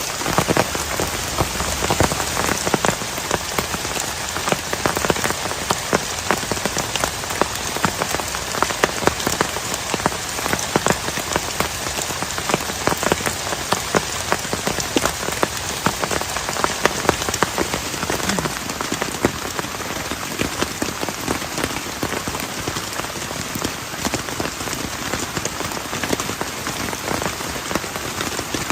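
Heavy rain falling steadily, with many close drops striking a surface sharply and distinctly.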